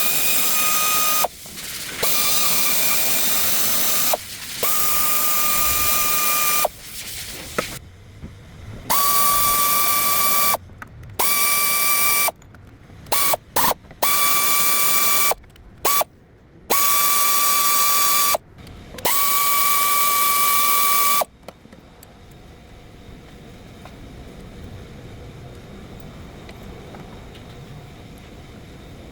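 A power tool running in short trigger bursts of one to two seconds, each a steady whine with hiss that starts and stops abruptly, about nine times. Then a much quieter steady hum for the last several seconds.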